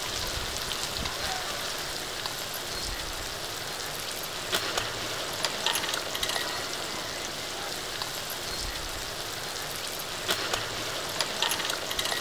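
Onions and vegetables frying in oil in a kadai: a steady sizzle with scattered pops and crackles.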